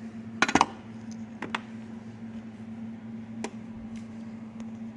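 Small metal parts being handled and set down: a quick cluster of sharp metallic clinks about half a second in, two more about a second later and a single one near three and a half seconds, over a steady low hum.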